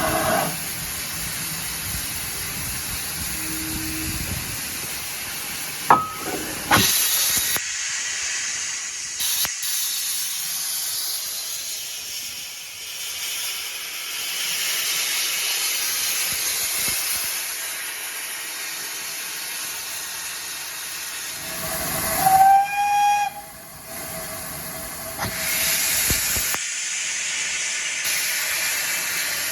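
Steam locomotive letting off a steady hiss of steam, with a couple of sharp knocks about six seconds in. About two-thirds of the way through, the steam whistle gives one short blast.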